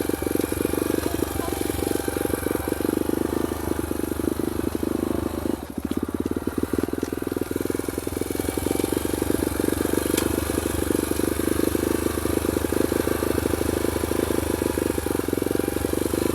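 Small dirt bike engine running steadily with rapid firing pulses, dipping briefly about five and a half seconds in before picking back up.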